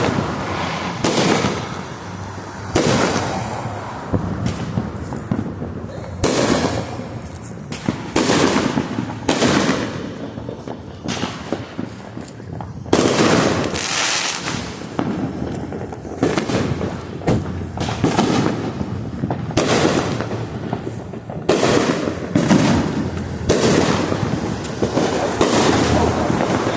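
Fireworks going off in a steady series of bangs and crackles, a new burst every second or two, each fading out before the next.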